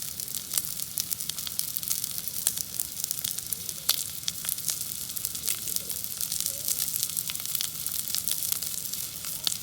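Crackling and sizzling at a wood campfire: a steady hiss with many small, sharp pops scattered irregularly throughout.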